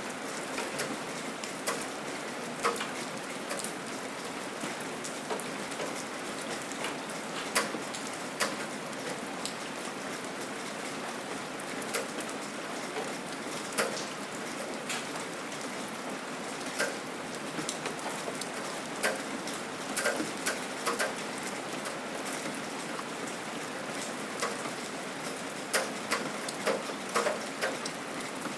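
Steady gentle rain with irregular sharper drips and drops landing close by.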